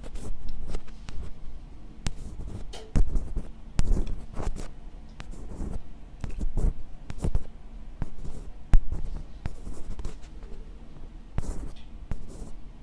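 ASMR scratching on the microphone ('karikari'): irregular short scratches and scrapes with a few sharp clicks, one standing out about nine seconds in, with no whispering.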